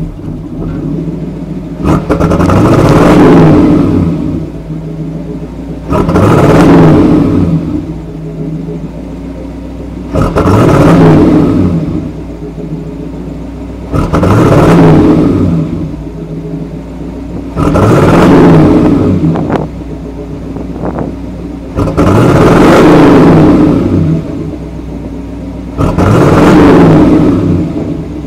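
Carbureted 305 V8 (Chevrolet LG4) breathing through a Flowmaster muffler, idling cold and revved seven times, about one rev every four seconds. Each rev rises and falls back to idle over about two seconds.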